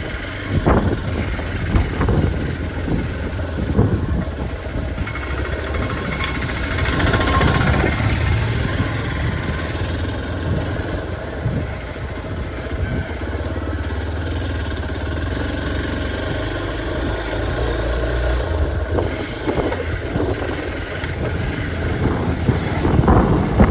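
Hero XPulse 200 4V motorcycle's single-cylinder engine running steadily while it is ridden.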